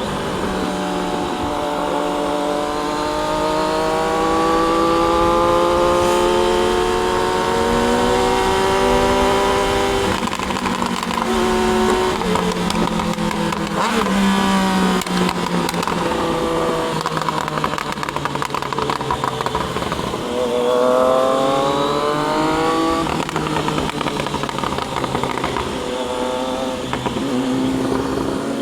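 Triumph Daytona 660's three-cylinder engine running under way, its pitch rising and falling with the throttle, with a hard climb in revs about two-thirds through and again near the end.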